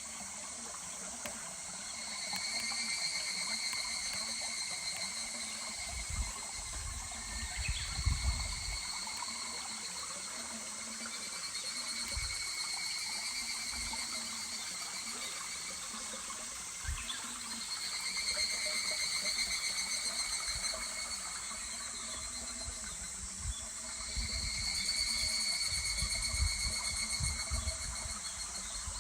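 Higurashi evening cicadas calling in waves of a few seconds each, a rapid pulsing trill that swells and fades, over the steady rush of a shallow stream. A few low thumps come and go.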